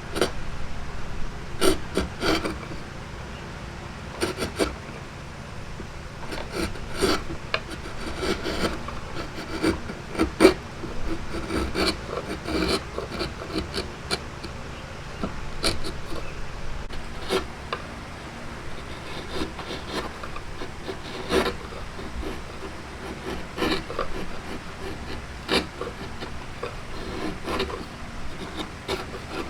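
Hand tool scraping and rasping wood in short strokes at an uneven pace, about one or two a second.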